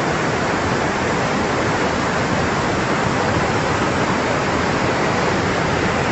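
Fast-flowing floodwater rushing steadily and loudly, with no let-up.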